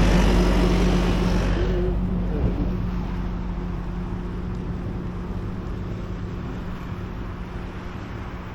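Sidewalk-cleaning machine's engine running with a steady hum, fading as it moves away. A louder hiss over it drops off about two seconds in.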